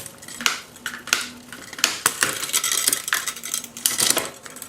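Bicycle shifter lever being clicked through the gears over and over: a series of sharp metallic clicks about two a second. The shifter's internal ratchet has just been flooded with lubricant because it was not resetting after each shift.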